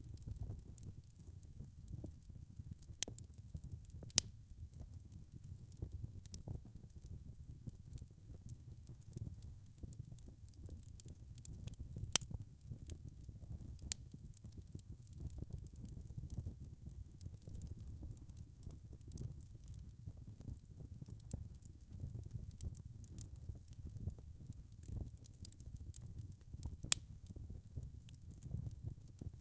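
Wood fire crackling and popping over a low, steady rumble, with a handful of sharper, louder pops scattered through.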